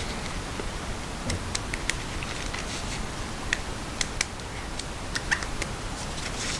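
Light, scattered clicks and taps of small metal knife parts and tools being handled on a work surface, over a steady low hiss.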